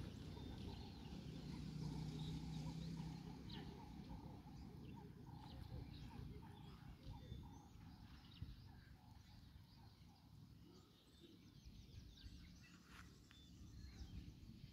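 Birds chirping and calling in short scattered notes over a faint low rumble.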